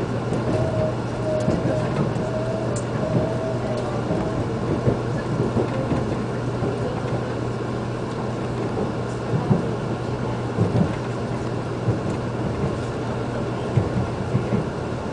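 Shinkansen train running at speed, heard from inside the passenger cabin: a steady low rumble and hum, with a wavering whine in the first three seconds and a few scattered knocks in the second half.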